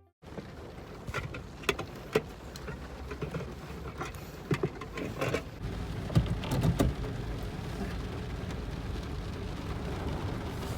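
Steady rain, with scattered sharp taps and knocks over the first seven seconds or so.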